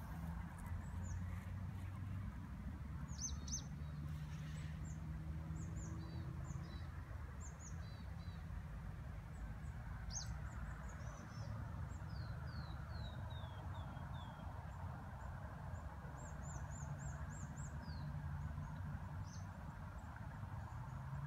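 Small songbirds chirping in a forest: scattered short, high, downward-sliding notes, with a falling run of about six notes around twelve seconds in. A steady low rumble sits underneath.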